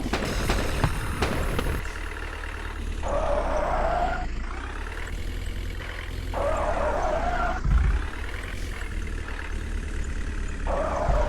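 JCB backhoe loader's diesel engine running under work, with a clatter in the first two seconds and three stretches of strained hydraulic whine as the arm works, plus a low thump about halfway through.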